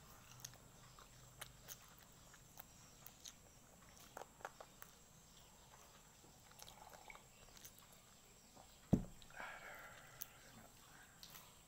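Quiet close-up chewing and lip-smacking of someone eating fried chicken by hand, with scattered small mouth clicks. One sharp thump about nine seconds in.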